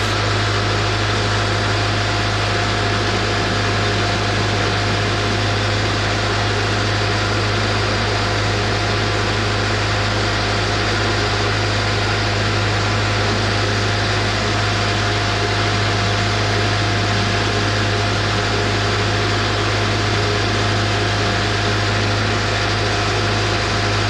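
Canal narrowboat's engine running steadily as the boat cruises under way: a constant low drone with a thin steady whine above it.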